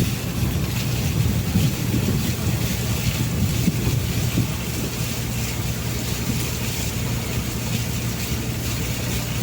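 A riverboat's engine running steadily with a constant low hum, under a rush of wind noise.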